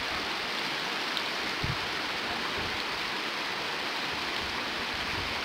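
Steady rush of flowing river water, an even noise with no change in level.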